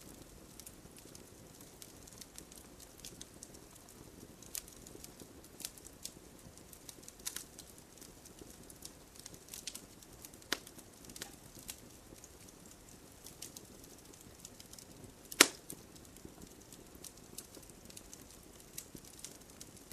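Wood campfire crackling: irregular sharp pops and snaps over a soft steady hiss, with one loud pop about three-quarters of the way through.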